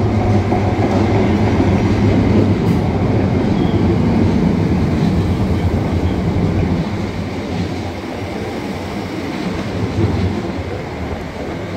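Electric passenger train running through a station platform: a loud steady rumble with a low hum, easing off after about eight seconds.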